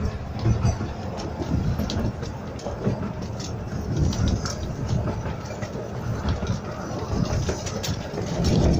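Miniature steam railway train running along the track, heard from on board: a steady low rumble from the carriages with irregular clicks and clacks of the wheels on the rails.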